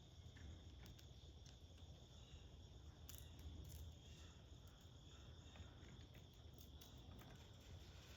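Near silence: faint outdoor ambience with a thin, steady, high insect-like drone and a few faint scattered ticks.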